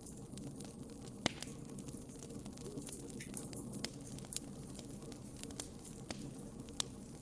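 Wood fire burning in a fireplace, crackling with scattered sharp pops over a steady low rumble of the flames. The sharpest pop comes about a second in, with a few more later on.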